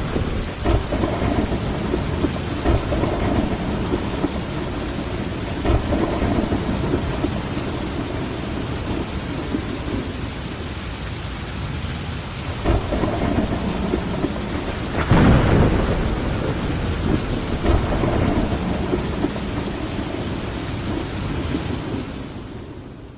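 Steady rain with rolling thunder: low rumbles swell several times, and the loudest peal comes about two-thirds of the way through. The whole sound fades out near the end.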